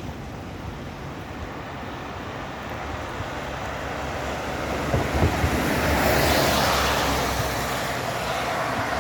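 A vehicle passing on a wet road: the tyre hiss and rumble swell to a peak about six or seven seconds in and then ease off, with a few low thumps just before the peak.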